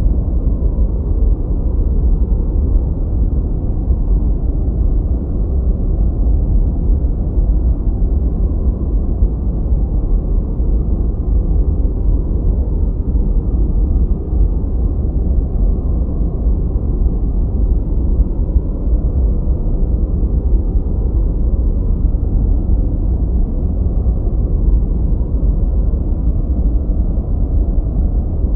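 Continuous generated noise, steady and unchanging, with a deep rumbling character and almost nothing in the high end. It is sold as white noise but sounds much darker, closer to brown noise.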